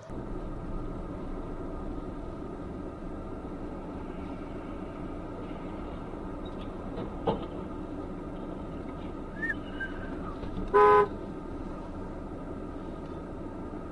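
Steady road and traffic noise with a single short car horn honk about eleven seconds in, the loudest sound, and a faint click a few seconds before it.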